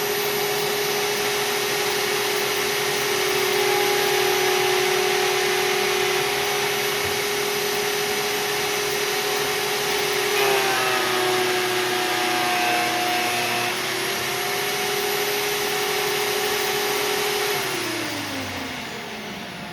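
Vevor 13-inch 2000 W three-blade benchtop planer running with a steady motor whine. About halfway through, its pitch sags for a few seconds as the cutterhead takes a pass through a thick oak board, then recovers. Near the end the motor winds down, its pitch falling.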